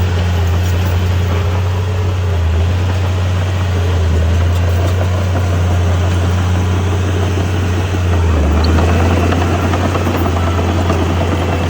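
Diesel engine of heavy earthmoving equipment running steadily with a deep low drone, with rattling noise over it; it grows slightly louder about eight seconds in.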